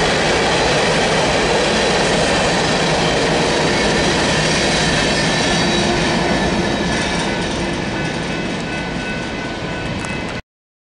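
Freight train of open-top hopper cars rolling past, steel wheels on rail with thin, steady high squealing tones. It grows quieter after about six seconds as the last cars go by, then cuts off abruptly just before the end.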